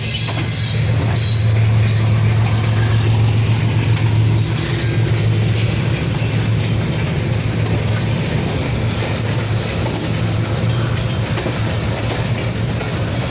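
Passenger train running, heard from aboard: a steady loud rumble of wheels on the rails with a continuous low hum.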